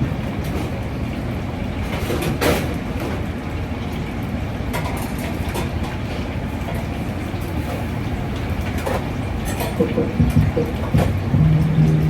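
Steady low mechanical drone of a food truck kitchen, with scattered clinks and knocks of cooking work; a steady low tone comes in near the end.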